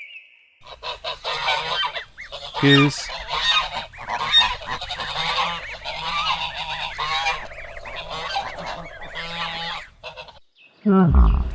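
Geese honking, many calls overlapping in a dense chorus. Near the end there is a brief, loud, low sound that falls in pitch.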